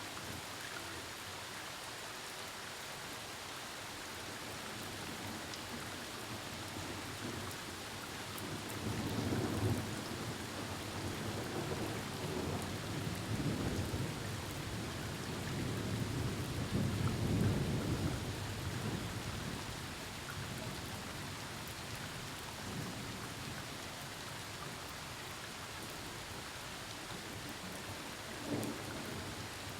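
Steady rain with a long roll of thunder that swells about a third of the way in, rumbles for some ten seconds, peaks and fades, followed near the end by a short, sharper crack.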